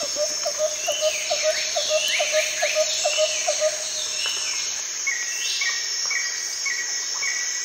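Tropical rainforest ambience: a steady high insect drone with a mix of bird calls. Over it, a rapid series of low chirps, about five a second, stops about four seconds in. Near the end a short higher note repeats about twice a second.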